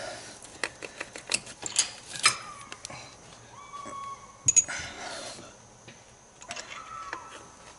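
Irregular sharp clicks and light knocks of hand tools and engine parts being handled in the engine bay while a spark plug is being changed.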